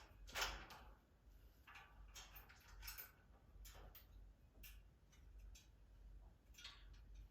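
Scattered light clicks and taps of a pet bird playing with its toys, with one louder knock shortly after the start.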